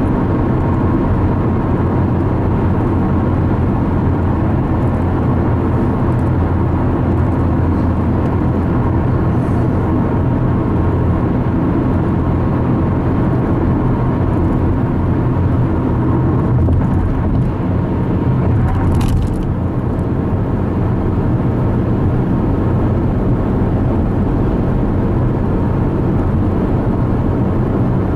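Steady road noise inside a car cruising on a freeway: the low drone of tyres and engine. A brief higher hiss a little past the middle.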